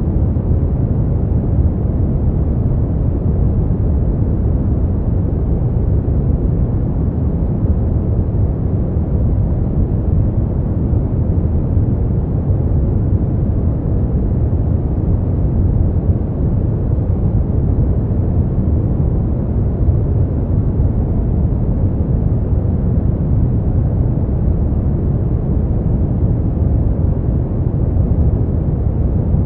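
Steady, unchanging noise played as a sleep and relaxation track, with its weight in the low end: a deep, even rumble-like hiss with little treble.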